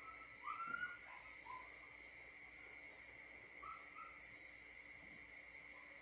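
Faint outdoor night-time-style ambience: insects, most likely crickets, keep up a steady high-pitched trilling. Short chirping calls cut in twice, a louder cluster about half a second in and a softer pair near four seconds.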